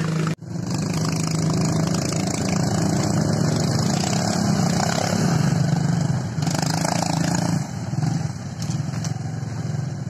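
Motorcycle engine running steadily under load, its note wavering a little, with a brief sudden dropout just at the start.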